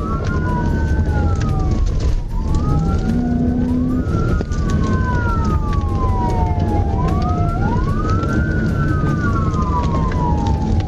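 Two police car sirens wailing out of step, each rising and falling over about four seconds, over a steady low rumble.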